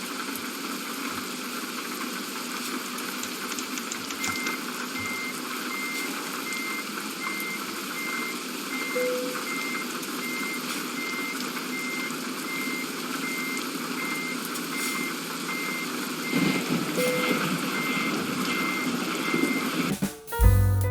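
A high electronic beep repeating about twice a second over a steady rumbling noise, starting a few seconds in and stopping as music begins near the end.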